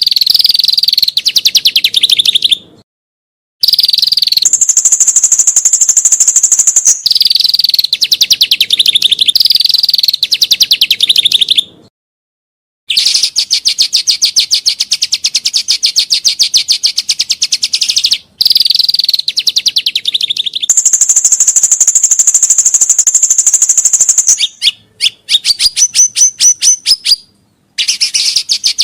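Songbird song used as training material for caged birds: long phrases of very rapid repeated notes, some pitched lower and some high and thin, broken by abrupt silent gaps between phrases.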